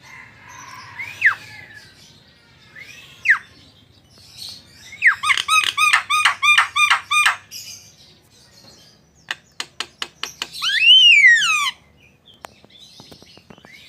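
Javan myna singing a varied sequence: two sharp down-slurred whistles, then a rapid run of about ten nasal notes, a quick string of clicks, and a loud rising-then-falling harsh call near the end, which is the loudest.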